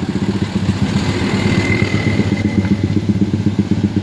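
Vehicle engine idling close by, a steady run of rapid, even firing pulses, with a faint high whine for about a second and a half in the middle.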